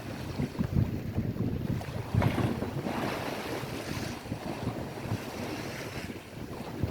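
Waves washing on a lakeshore, with wind buffeting the microphone in uneven low gusts. A louder surge comes a little over two seconds in.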